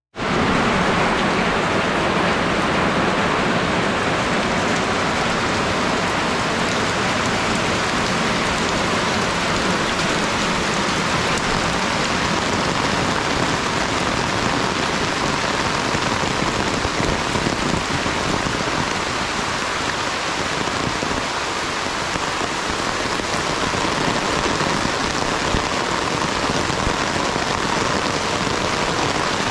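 Steady, loud rain falling, an even hiss of many drops.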